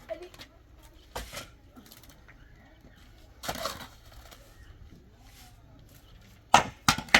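Irregular sharp knocks and crunches: single ones about a second in and halfway through, then a quick cluster of several loud ones near the end.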